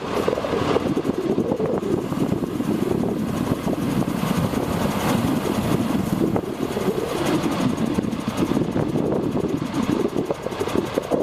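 1997 International 2674 crane truck's diesel engine running steadily.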